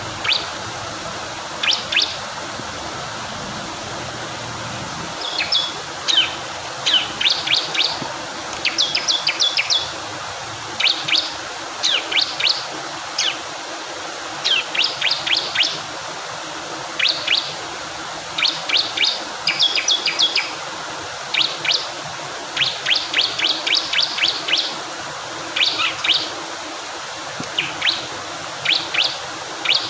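Bar-winged prinia (ciblek kristal) calling: quick runs of sharp, high chirps, several notes to a run, repeating every second or two over steady rushing water.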